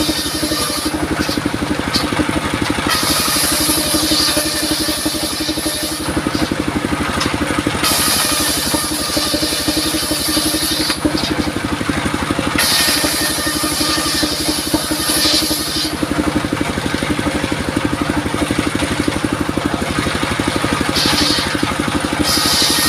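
Engine-driven circular sawmill running steadily. Its blade cuts durian wood in about five passes of two to three seconds each, each adding a high hissing whine over the engine's drone.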